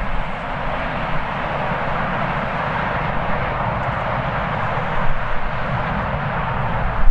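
Jet airliner's engines, a steady loud rush that swells slightly midway, with strong wind buffeting the microphone underneath.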